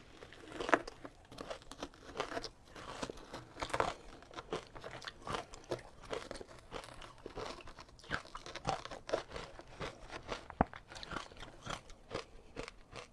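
Ice being bitten and chewed, an irregular run of sharp crunches and crackles.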